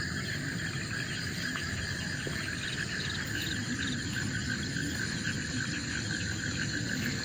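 Insects trilling in a steady, finely pulsing chorus, over a low steady rumble.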